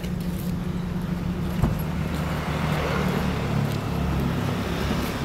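A car engine idling steadily, with a single sharp knock a little over a second and a half in.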